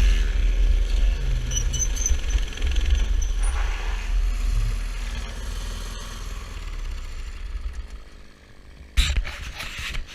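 Mini bike's small engine running, growing fainter as it moves away, with heavy low rumble. One sharp knock comes near the end.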